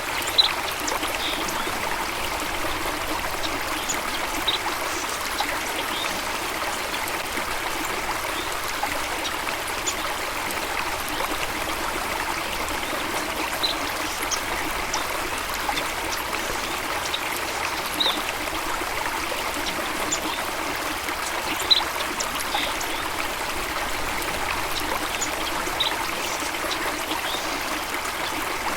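Water flowing steadily over rocks in a stream or small waterfall, with a constant rushing and trickling. Scattered brief, high-pitched ticks sit on top; the sharpest come about half a second in and about three quarters of the way through.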